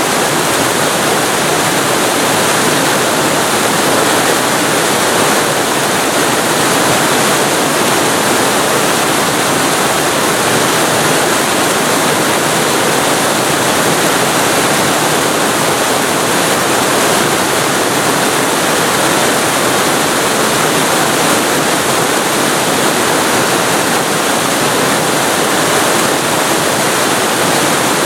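Waterfall recorded up close: a loud, steady rush of falling water, even and unbroken, with no other sound.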